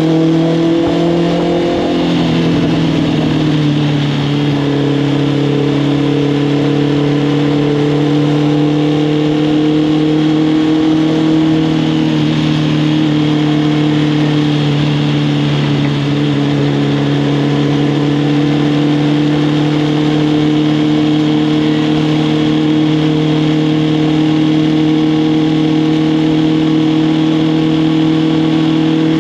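Honda CB650R's inline-four engine running through an Arrow Thunder full exhaust system while the bike is ridden. The engine note eases down a little in the first few seconds, then holds steady at a cruise.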